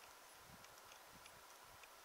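Near silence: a faint steady hiss with a few faint scattered ticks.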